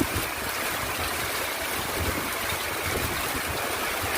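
Heavy rain pouring steadily, with many separate drops ticking on hard surfaces.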